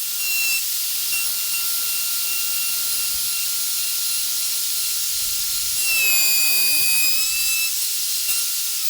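Elu heavy-duty 1/2-inch plunge router running at full speed with a steady high whine and hiss, machining out a deep mortise in timber. About six seconds in its pitch sags under load for a second or two, then recovers.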